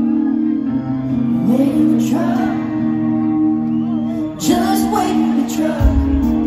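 Live country band playing through a concert PA, with a woman singing over sustained chords. Heavy low drum beats come in near the end.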